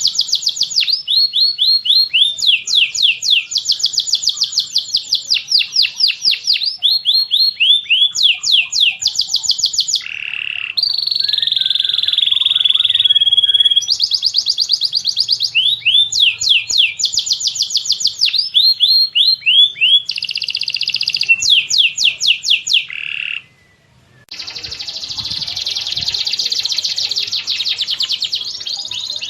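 Masteran birdsong recording of tengkek buto, cililin and canary song: fast runs of repeated high, down-slurred chirps, switching to a new phrase every second or two, with a short break about three-quarters through followed by a dense continuous warble.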